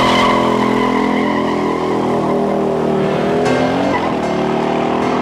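1969 AMC AMX's V8 running under way as the car drives off, a steady pitched drone that sags slowly. About three and a half seconds in, the pitch dips and climbs again.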